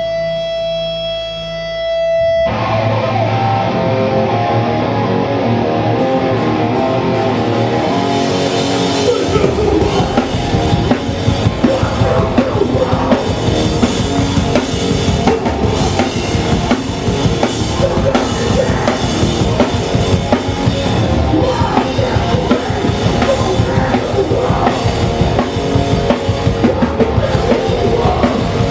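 Hardcore punk band playing live: a held electric guitar tone rings for the first couple of seconds, then distorted guitars, bass and drums come in together. The drumming turns faster and denser about ten seconds in.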